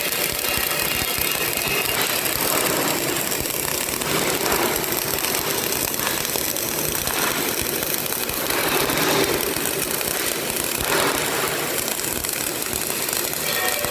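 CO2 MIG welding arc running steadily with a continuous crackling sizzle, swelling briefly now and then.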